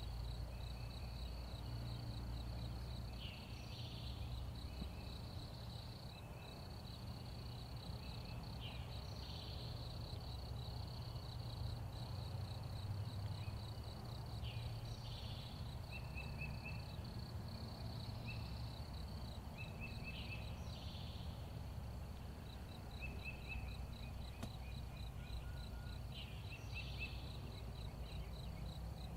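Woodland ambience: a steady, high, fast-pulsing insect trill, with short repeated chirps and scattered brief calls from small birds, over a low rumble.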